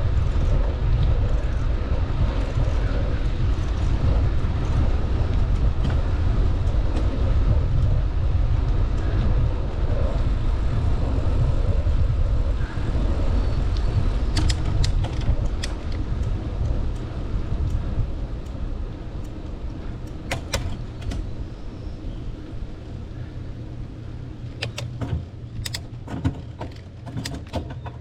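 Wind rumbling on the microphone while cycling, easing off over the last several seconds, with scattered sharp clicks and rattles from the bike.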